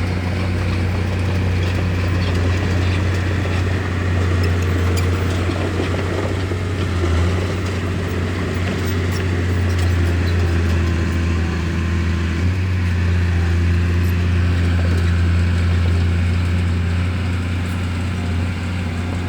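Bulldozer's diesel engine running steadily under load, a deep low drone whose note shifts slightly about two-thirds of the way through, with faint scattered clicks and rattles.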